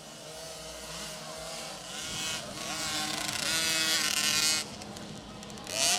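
Motocross bike engines revving and passing, rising and falling in pitch. They grow louder to a peak about four and a half seconds in, then drop off suddenly, and a short, loud rev comes near the end.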